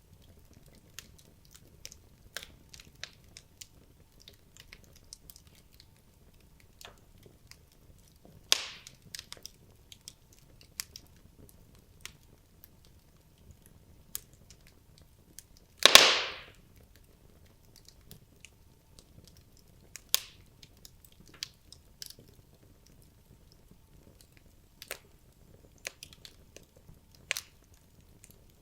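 Wood logs burning in a fireplace, crackling with scattered small snaps and a few louder pops. The loudest pop, about halfway through, trails off over about half a second.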